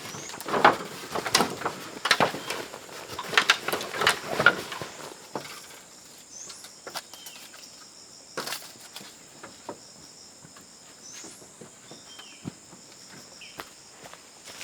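Insects buzzing in a steady high drone, with short bird chirps now and then. For the first five seconds or so there are crackling, rustling strokes, like movement through dry leaf litter, and a single sharp click comes about eight seconds in.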